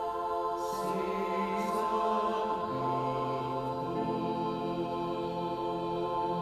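Choir singing long held chords, the lower voices moving to new notes about one and three seconds in, with two brief hisses near the start.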